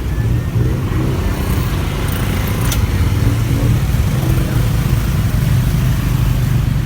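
Motorbike engine running and road traffic noise heard from on the moving bike, a steady low rumble, with one sharp click a little under three seconds in.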